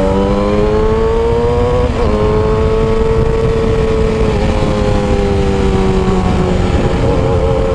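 Yamaha R6 600 cc inline-four sport bike with a custom exhaust under way: the engine note climbs for about two seconds, breaks at a gear change, holds steady, then eases down before another change near the end. Wind noise runs underneath.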